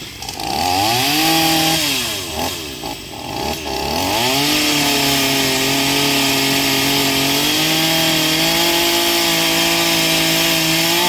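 Gas chainsaw engine revved up and down several times, then held at a steady high speed from about four seconds in as it cuts into the tree.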